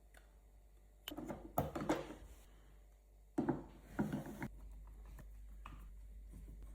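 Small kit parts being handled and fitted together on a bench: two short spells of clicks, knocks and light clatter, the first about a second in and the second about three and a half seconds in.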